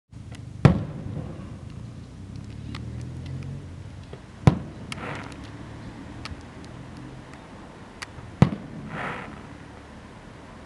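Fireworks display: three loud shell bursts about four seconds apart, with scattered smaller cracks and a brief crackle between them.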